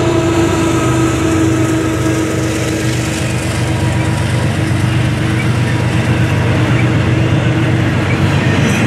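Freight train rolling past at close range: the steady hum of a GE ES44AC diesel locomotive moving away, its higher notes fading in the first seconds, over the continuous rumble of intermodal container cars rolling on the rails.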